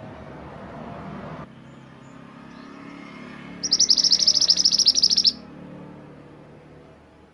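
A mantenan gunung songbird sings one loud, fast, high trill of rapidly repeated notes lasting under two seconds. A low background rumble stops suddenly before the song.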